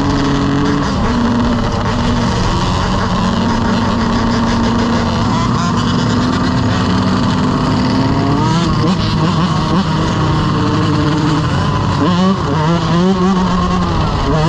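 Motorcycle engine running under way, its pitch holding fairly steady at first and then rising and falling with the throttle from about halfway through, over a steady rushing noise.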